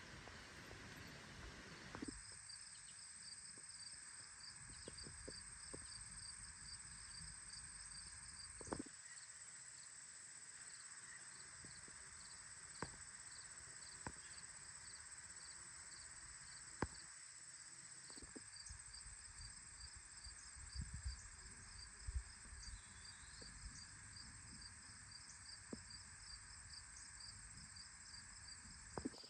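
Insects such as crickets chirping faintly and steadily: a high, even trill with a rhythmic chirp repeating about three times a second, and a few faint clicks.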